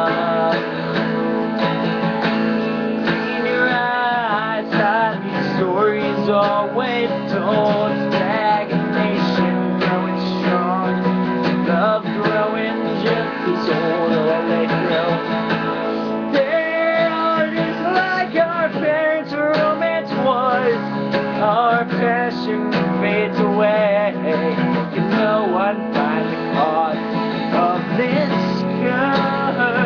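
Acoustic guitar strummed through an instrumental passage, with a melody line over it whose pitch bends and wavers.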